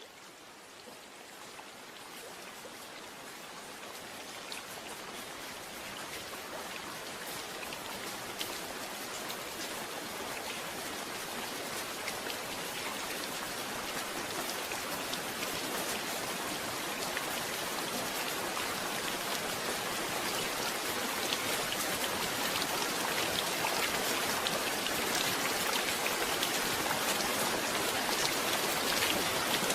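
Steady rain falling, an even hiss with scattered individual drop ticks, growing gradually louder through the whole stretch as it fades in.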